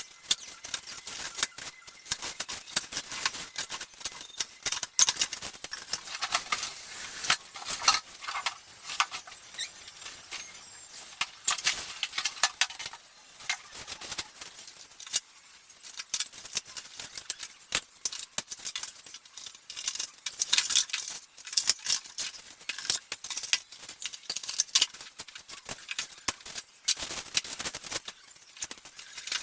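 Unboxing a Parrot Bebop drone: packaging handled and opened, a dense, irregular run of crinkles, clicks and small rattles.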